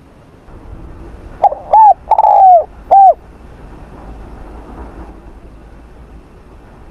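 Spotted dove cooing: one phrase of four arched notes, a short note, another, a longer and louder third, then a final note, about a second and a half in.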